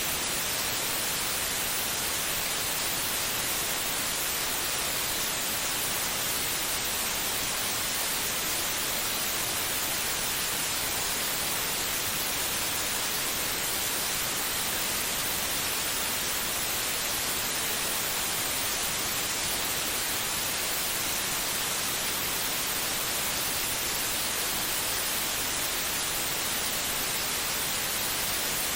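Steady white noise: an even, unchanging hiss that is strongest in the high frequencies, used to lull a baby to sleep.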